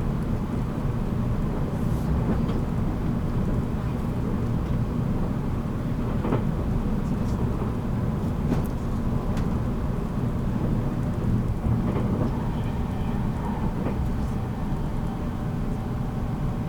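Running noise inside a 783 series electric train's motor car while under way: a steady low rumble of wheels and running gear, with a few faint clicks.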